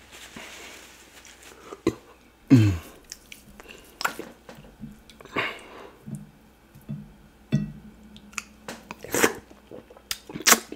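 Close-miked mouth sounds of a person eating fufu with cocoyam soup by hand: wet chewing, lip smacks and short clicks at irregular intervals, with soft squelches as fingers work the fufu in the soup. About two and a half seconds in, a brief low sound drops sharply in pitch and is the loudest event.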